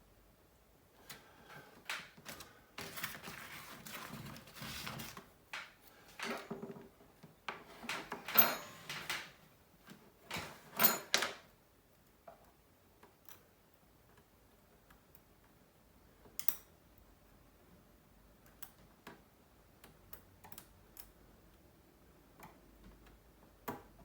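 Small clicks, taps and short scrapes of phone parts and small tools being handled during a smartphone repair. They come thick in the first half, with the sharpest clicks a little past the middle, then thin out to a few scattered clicks.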